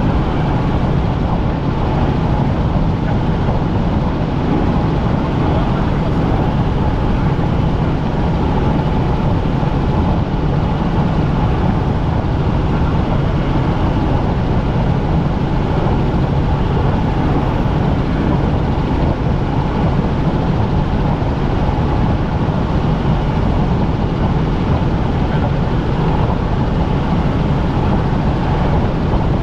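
Helicopter in flight, heard from inside the cabin: a loud, steady drone with a constant hum in it.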